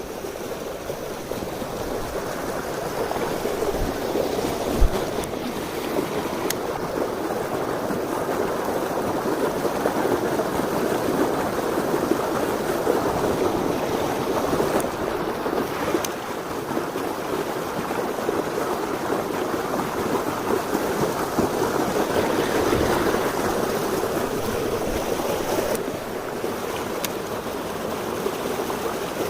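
Mountain stream flowing: a steady rushing of water, with a short knock about five seconds in.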